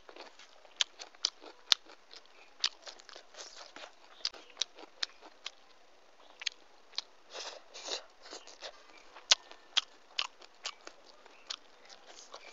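Close-miked eating: chewing with irregular wet mouth clicks and smacks, a few of them louder.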